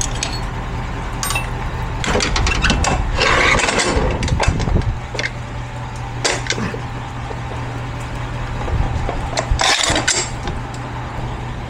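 Tow truck engine idling steadily, with stretches of metallic clanking and rattling about two to five seconds in and again near ten seconds.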